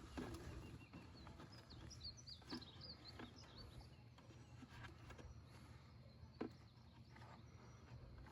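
Near silence with a low steady hum, a bird chirping a quick run of high notes about two seconds in, and a few faint knocks.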